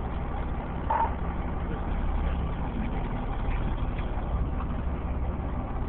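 Fire engine idling: a steady low engine rumble.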